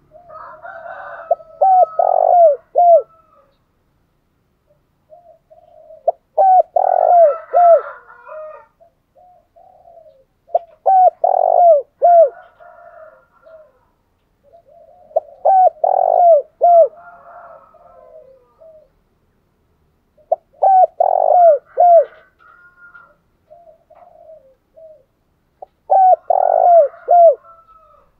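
Spotted dove cooing: a phrase of several quick, low, falling coos repeated about every five seconds, six times, with fainter higher chattering notes running alongside each phrase.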